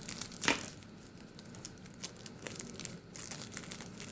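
Plastic and paper packaging being crinkled and torn open by hand, a run of short crackles and rustles, loudest about half a second in.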